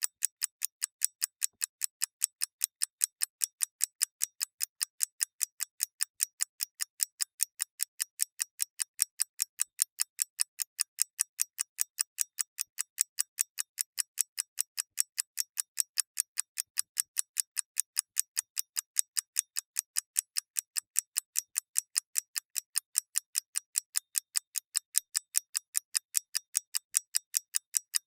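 Mechanical clock ticking: a fast, even train of light, crisp ticks, about four a second, with no low thud.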